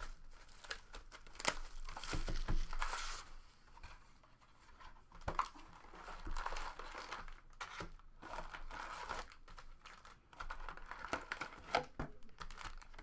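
Plastic wrapping of trading-card packs crinkling and tearing as packs are ripped open, irregular rustling with scattered sharp clicks.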